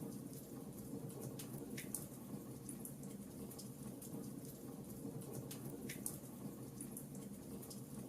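Wood fire crackling with irregular small snaps, and two louder pops, one about two seconds in and one about six seconds in.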